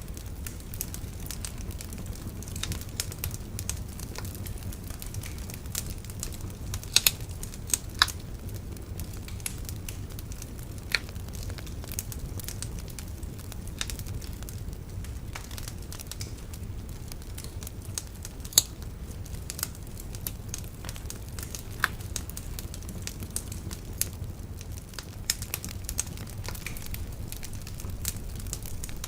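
Wood bonfire burning: irregular crackling with sharp pops over a steady low rumble of the flames.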